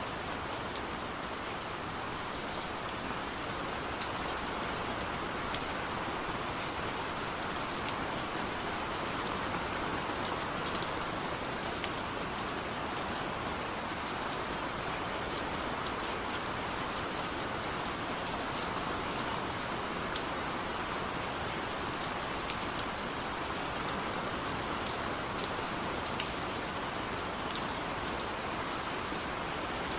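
Steady rain falling on a surface, an even hiss with scattered individual drop ticks throughout.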